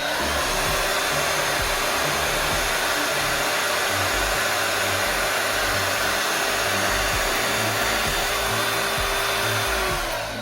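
Hair dryer running on full blow: a steady rush of air with an even motor whine. Near the end it is switched off and the whine drops in pitch as the motor winds down. The dryer is working again after a part was replaced; it had not been powering on. Background music plays underneath.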